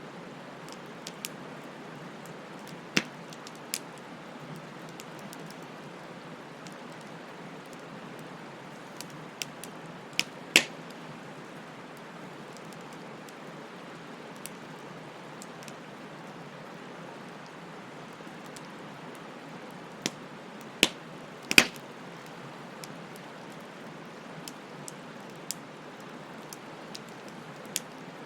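Wood bonfire crackling: a steady hiss with scattered sharp pops and snaps, the loudest about ten seconds in and a cluster a little after twenty seconds in.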